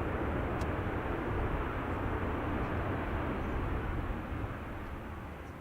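Jet engine noise of a landing Boeing E-7A Wedgetail, a 737-based aircraft with twin turbofans: a steady, loud rumble and hiss that fades over the last second or so.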